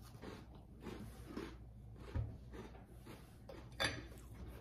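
Faint crunching and chewing of crisp ginger snap cookies: a few soft, scattered crunches, the sharpest one a little before the end.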